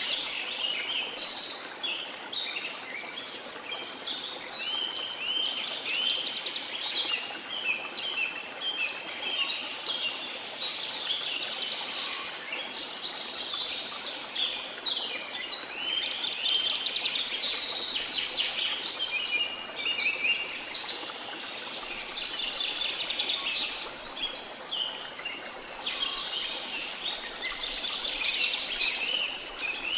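A dense chorus of many birds chirping and singing without pause, over a steady, even rush of water.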